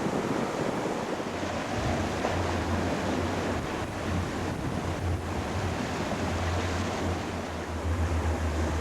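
Wind and rushing water around a sailing yacht under way, with wind buffeting the microphone; a low wind rumble sets in about two seconds in and continues.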